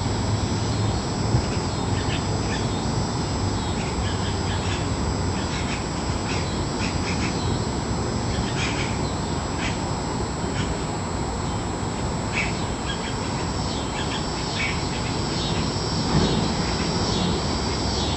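Cicadas buzzing in the trees with short bird chirps scattered over them. Near the end, one cicada's pulsing buzz starts to swell louder.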